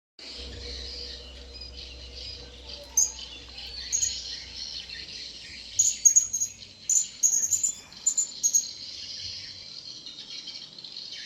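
Blue-crowned hanging parrots (serindit) giving short, sharp, high-pitched chirps, singly and then in quick clusters from about three seconds in until a little past eight seconds, over a steady high drone of insects.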